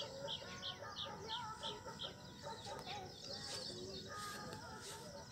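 Birds calling in open farmland: a run of short, high chirps repeated about three times a second for the first two seconds, with other scattered bird calls throughout.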